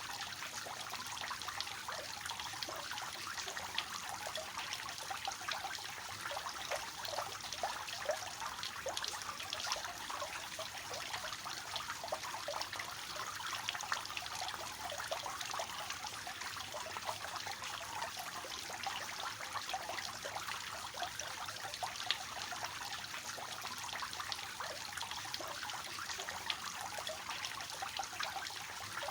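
Fountain water falling in a three-tiered cascade, a steady splashing and trickling with many small droplet splashes.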